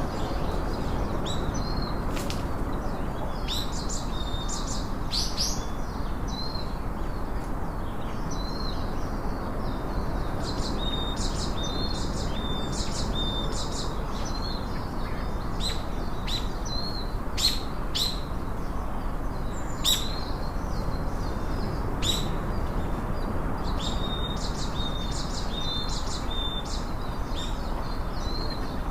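Small birds chirping and singing, with short high notes repeated again and again, over a steady background rush.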